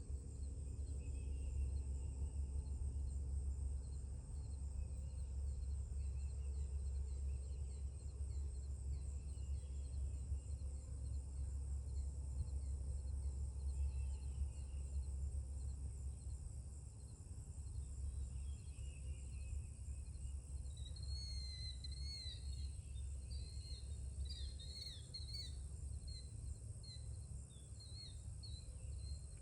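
Birds chirping, sparse at first and busier in the last third, over a steady high insect drone and a steady low rumble.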